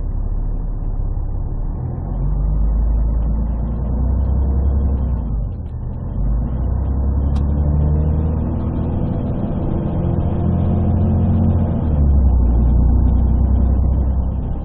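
Scania DSC 11 diesel engine of a Scania CN113CLL city bus with a Voith automatic gearbox, heard from inside the bus as it drives, its note rising as it pulls, with a short dip about six seconds in. The phone's partly covered microphone makes the sound heavy in the bass.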